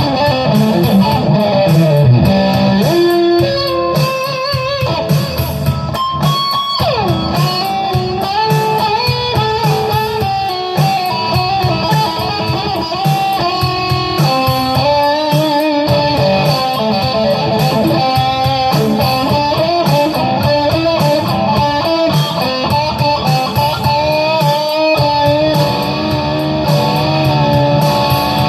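Electric guitar playing improvised lead lines, with wavering vibrato and string bends and one long downward slide about seven seconds in.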